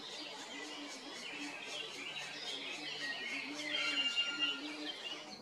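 Birds chirping and twittering, busiest and loudest about four seconds in, over a low hum that breaks off and comes back.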